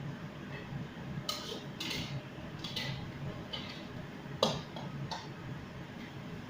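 Kitchen utensils and dishes clinking and clattering as cooking gets under way: about six light, irregular clicks and knocks, the sharpest about four and a half seconds in, over a steady low background hum.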